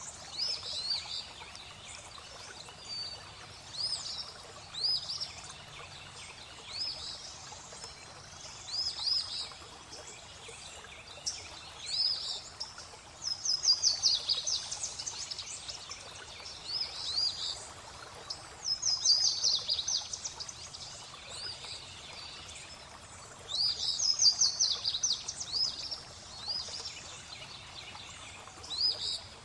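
Birds singing over steadily flowing water. Short rising call notes come every second or two, with louder fast trills about halfway through, again about two-thirds in, and near the end.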